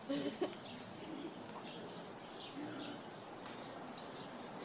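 Birds chirping faintly, with two short low calls: one just after the start and one about two and a half seconds in.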